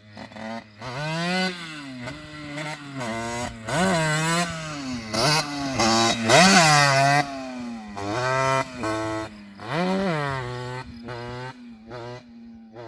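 Small two-stroke 70cc moped engine (Yamaha DT with a Top Perf cast-iron 70 kit and SCR Corse exhaust) being revved up and let back down about five times, with a rising and falling note.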